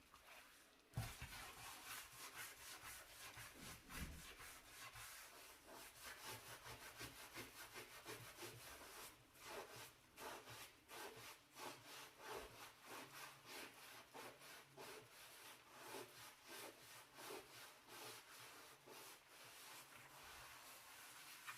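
Brush scrubbing a dirty stove in quick, repeated back-and-forth strokes, a few a second, with a couple of sharper knocks near the start.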